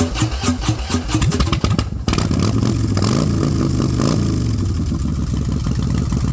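Motorcycle engine idling with an uneven, pulsing beat. About two seconds in it changes to a steady run, with the pitch rising and falling as the bike accelerates.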